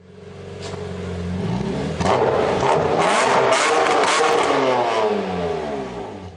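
A car engine accelerating hard, its pitch climbing steadily, then fading away near the end.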